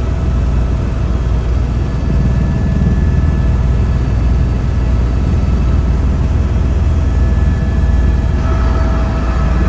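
Helicopter in flight, heard from aboard: a steady low rumble of engine and rotor with a thin, steady high whine above it.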